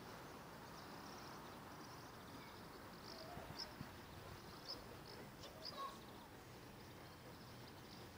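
Faint outdoor background hiss with a few short, high chirps of small birds, clustered in the middle.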